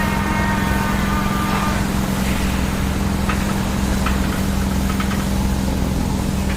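Bulldozer's diesel engine running steadily with a deep hum, a high whine fading out about two seconds in, and a few faint clanks.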